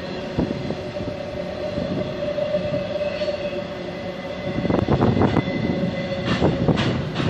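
Freight train cars rolling past, wheels running with a steady ringing squeal over a rumble. A burst of clacks comes about five seconds in and two sharp clacks near the end as the wheels cross rail joints.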